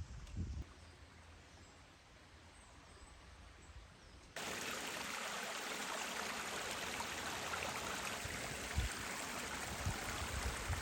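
Faint low thumps, then about four seconds in a steady rush of running water cuts in abruptly.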